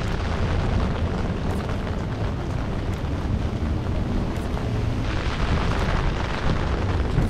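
Rain drumming on an umbrella held just above the microphone: a steady, deep rumbling hiss.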